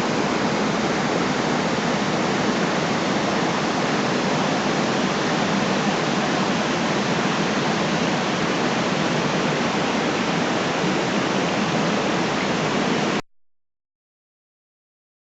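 Loud, steady rushing noise with no pitch or rhythm, cutting off abruptly about thirteen seconds in.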